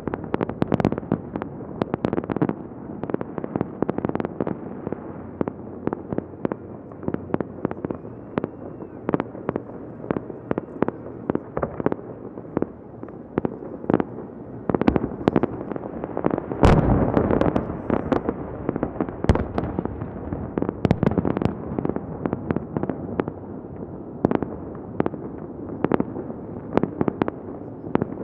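Festive fireworks display: aerial shells bursting in a steady stream of sharp bangs at irregular intervals over a continuous rumble, with a louder, denser cluster of bursts about two-thirds of the way through.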